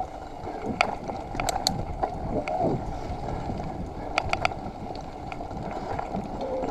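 Mountain bike rolling over a wet, muddy trail: steady tyre and wind noise, with a few sharp clicks and rattles from the bike.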